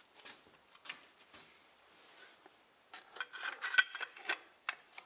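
Small metal clutch parts clicking and clinking as the release bearing's spring clip is worked into place on the release fork. A few scattered clicks come first, then a busier run of sharp clicks about three seconds in.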